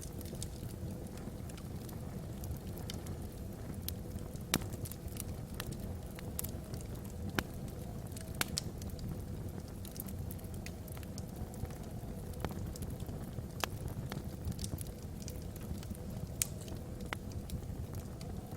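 Wood logs burning in a fireplace: a steady low rumble with irregular sharp crackles and pops, a few of them louder than the rest.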